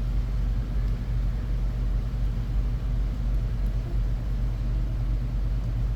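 A steady low hum with a faint even hiss, unchanging throughout, with no distinct clicks or knocks.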